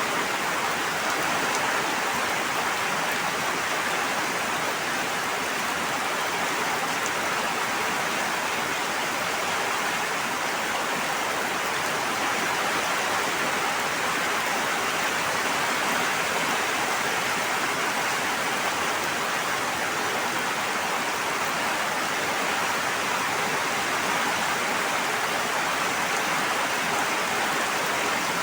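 Steady, even sound of water, an unbroken hiss with no separate drops, splashes or changes.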